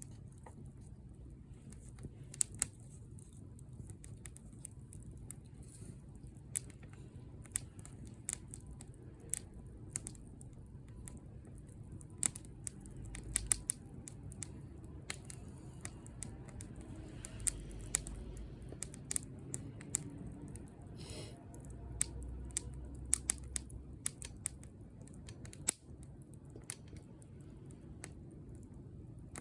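Wood campfire crackling: irregular sharp pops and snaps over a low steady rumble of burning, with a brief hiss about two-thirds of the way through.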